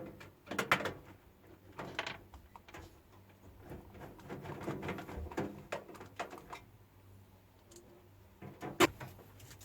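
Scattered clicks and light knocks of parts and tools being handled, with a faint steady low hum underneath.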